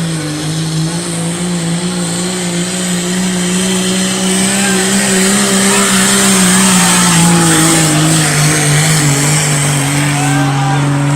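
Pulling tractor's engine running hard at high, steady revs under load, its pitch dipping slightly a couple of times, with loud rushing noise building toward the middle.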